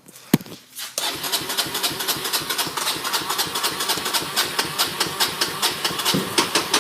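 Sharp click, then the Kawasaki KLX140's electric starter cranking its single-cylinder four-stroke engine in an even stream of rapid pulses without the engine catching.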